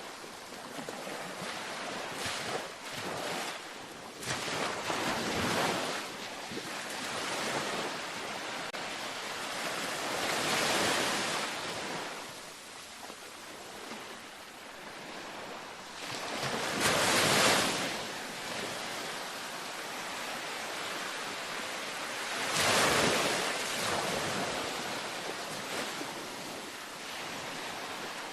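Gentle ocean surf washing onto a beach: a steady hiss of water between waves, swelling as each wave breaks, with a few larger breaks, the loudest just past the middle.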